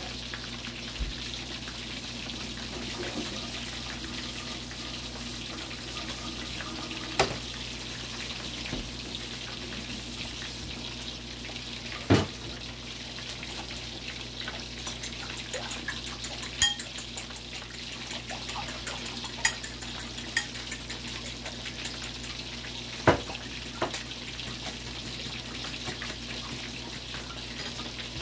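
Chicken leg quarters frying in hot oil: a steady sizzle with fine crackling. It is broken by about half a dozen sharp knocks, the loudest around 7, 12, 17 and 23 seconds in.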